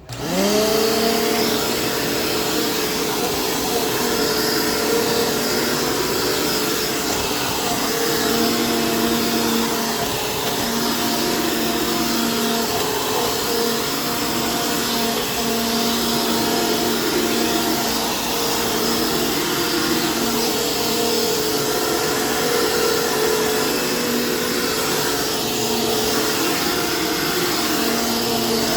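Dirt Devil Jaguar upright vacuum's 12-amp bypass motor switching on and spinning up, then running steadily while vacuuming, with a fresh belt and bag fitted.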